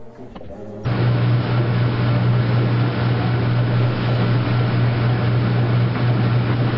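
Washing machine running loudly: a steady low hum under an even rushing noise that starts abruptly about a second in.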